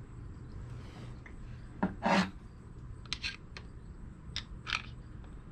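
Hand tools and metal engine parts clinking and scraping: a few short, sharp metallic clicks, with a longer, louder scrape about two seconds in.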